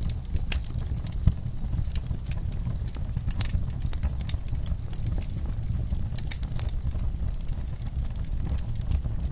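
Wood fire burning in a fireplace: a steady low rumble of flame with frequent irregular crackles and pops, one louder pop a little over a second in.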